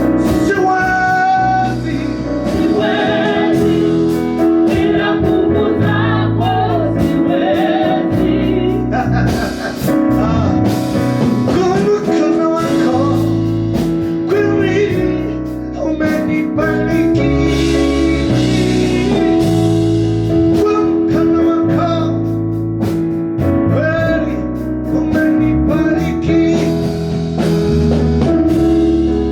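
Gospel praise-and-worship music: singing carried over a band with steady bass notes and a regular drum beat.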